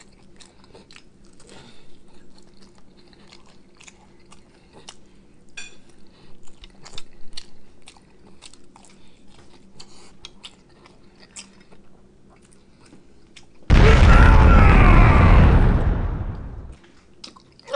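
Close-up chewing and biting of food, with small crunchy bites, from a person eating corn on the cob. Near the end a much louder added sound effect comes in, a rushing burst like flames lasting about three seconds and fading away.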